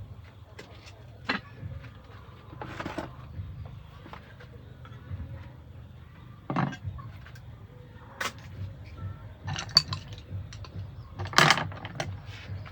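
Scattered clinks and knocks of kitchen utensils being handled during cooking, over a low steady rumble; the loudest knock comes near the end.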